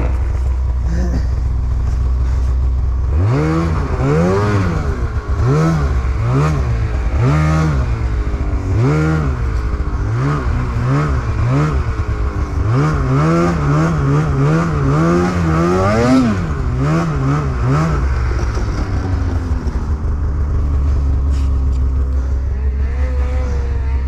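Snowmobile engine revving up and down again and again as the throttle is worked, its pitch rising and falling roughly once a second, then settling to a steady drone for the last few seconds.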